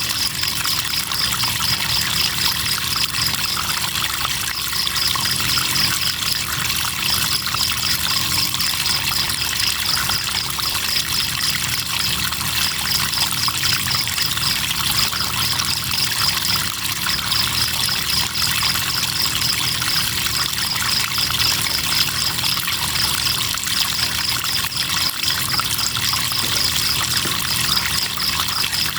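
Crickets trilling in rapid pulses, in runs of a few seconds with short breaks, over the steady rush of river water.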